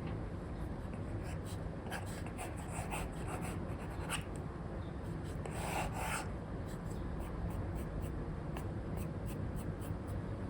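Stylus drawing on a tablet with a paper-like screen film: an Apple Pencil 2 with an Elecom nib making short scratchy strokes and taps, with one longer, louder stroke about six seconds in, over a steady low background hiss.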